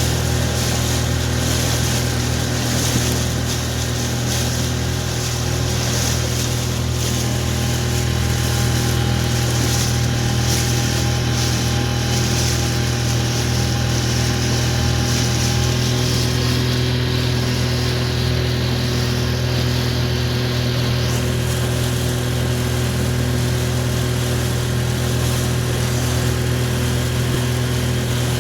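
Small Mercury outboard motor running steadily at a constant speed, with an even engine hum and hiss that do not change.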